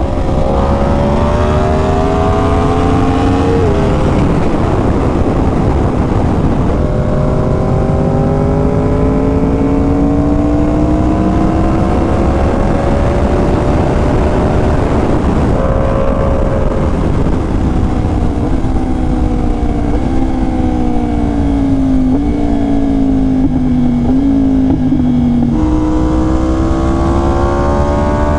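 2020 Yamaha R1's crossplane inline-four with an SC Project exhaust, under way on the road. The revs climb and drop suddenly at each upshift, then fall in small steps as it slows and downshifts, and it pulls up through the revs again near the end.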